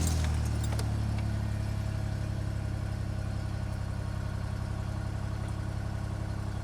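2003 Pontiac Grand Am engine idling steadily just after a cold start in freezing weather. It is slightly louder right after catching and settles a little over the following seconds.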